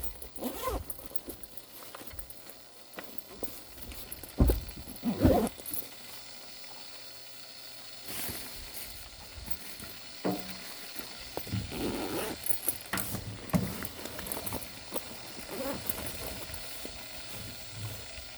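Outdoor ambience with scattered knocks and rustles of handling; two heavier thumps come about four and a half and five seconds in.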